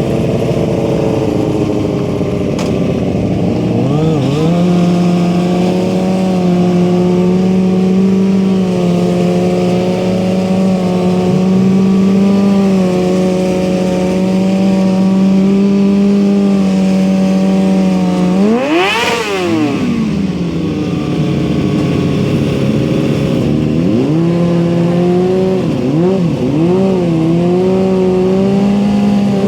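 Engine held at steady high revs for long stretches, with one quick rev-up and drop about nineteen seconds in, then revs rising and falling unevenly near the end.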